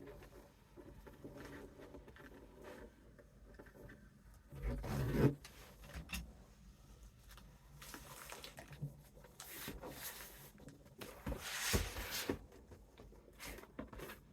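Hands handling a gift bag and cardboard while gluing the bag down: irregular rubbing and rustling with scattered clicks. There is a louder bump about five seconds in, and a burst of rustling with a knock near the end.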